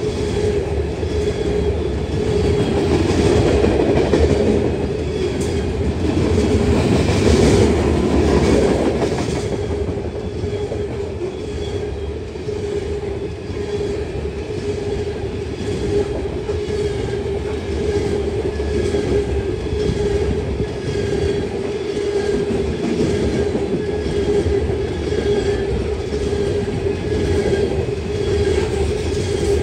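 A train passing close by, its wheels clicking rhythmically over the rail joints over a steady rumbling hum. It is loudest a few seconds in, then runs on steadily.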